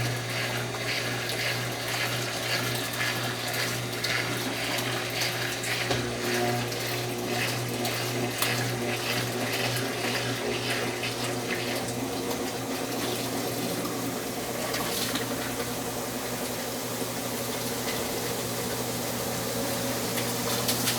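Brastemp 9 kg washing machine running with water rushing and splashing inside it over a steady low electric hum; the hum fades out about two-thirds of the way through while the water sound goes on.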